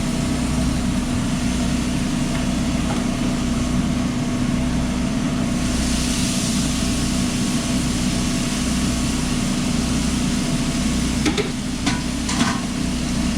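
Steady engine-like machine hum in a food truck, with a low throb pulsing about twice a second. About six seconds in, a hiss like food sizzling on the griddle swells over it, and a few sharp clicks come near the end.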